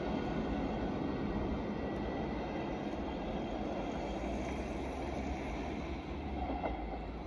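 A train running on the rails, a steady rumble of wheels and running gear that slowly fades.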